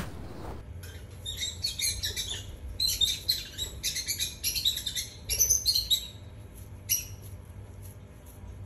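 Small birds chirping in quick clusters of short, high calls, busiest from about one to six seconds in, with one last chirp near seven seconds.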